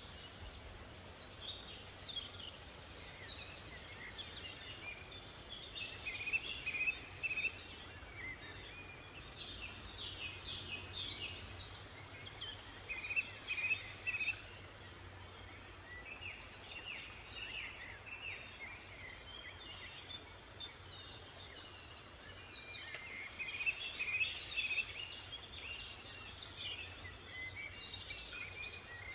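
Several songbirds singing and chirping in short, high, quick bursts that come and go in clusters, over a steady high hiss and a low background rumble.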